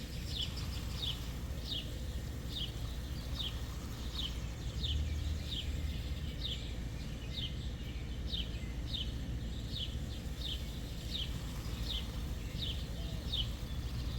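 A bird repeating a short, high, falling chirp over and over, a little more than once a second, over a steady low rumble of background noise.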